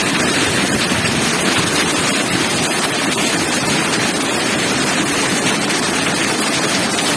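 Heavy rain mixed with hail pouring down in a windstorm, a loud, steady, dense hiss of countless small impacts.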